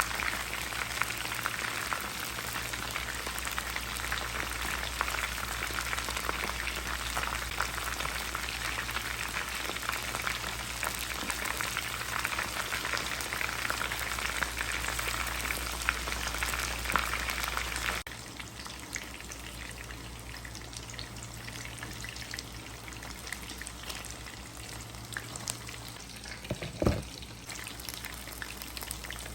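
Chicken pieces frying in hot oil: a dense, steady sizzle and crackle that drops suddenly to a quieter sizzle a little over halfway through. A single short knock near the end is the loudest sound.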